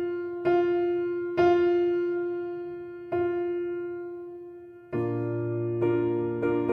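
Slow background piano music: single sustained electric-piano notes struck every second or two and left to ring, moving to fuller chords near the end.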